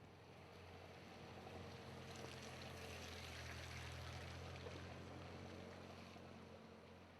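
A motor vehicle passing on a rain-wet street: a low engine hum with a hiss swells to a peak around the middle and fades away again, over faint rain.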